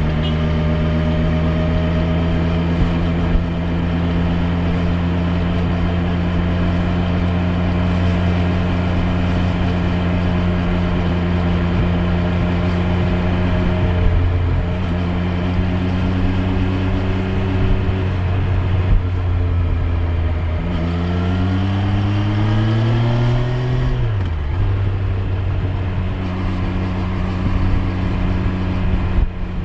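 Triumph Street Triple 765 R's inline three-cylinder engine running at a steady cruise for about twenty seconds. Near the end the revs climb for about three seconds, then drop sharply at a gear change and settle steady again.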